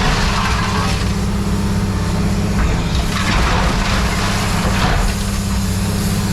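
A machine running steadily with a low hum, with several short noisy rushes or rattles over it, a little under a second in, around three seconds and around four to five seconds in.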